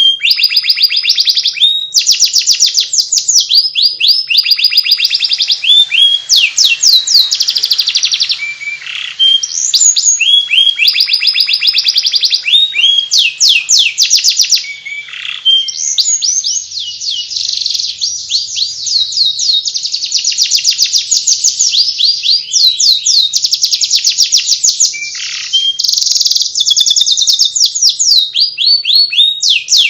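Domestic canary singing a continuous twittering 'ngeriwik' song: long runs of rapid, high-pitched repeated chirps in quick phrases, broken only by brief pauses.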